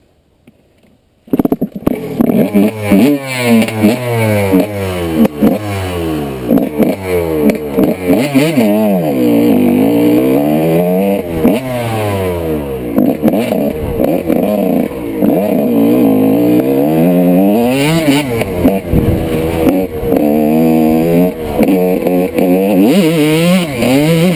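1995 Honda CR125 two-stroke motocross engine, loud, revving up and dropping back over and over as the bike is ridden, its pitch rising and falling through the gears. It starts a little over a second in, after near silence.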